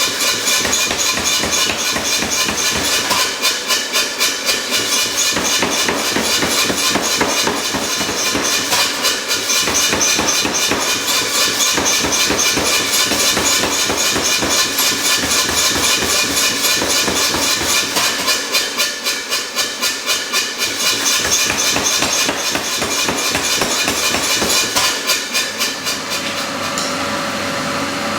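Hot steel being forged under rapid, steady hammer blows, which stop about 26 seconds in, leaving a steady hum.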